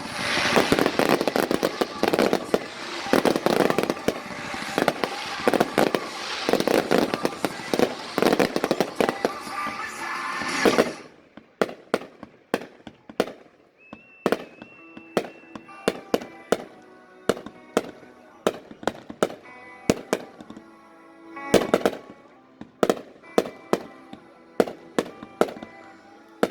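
Fireworks finale: a dense barrage of bangs and crackling for about the first eleven seconds that stops suddenly, followed by single sharp reports about twice a second.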